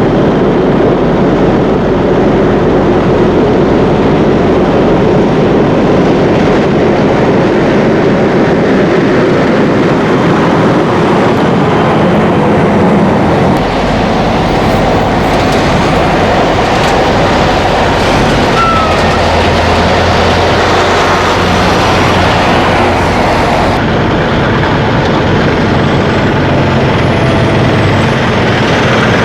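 Heavy vehicles passing close by: a loud, steady rumble that runs on without a break, changing slightly in tone about halfway through.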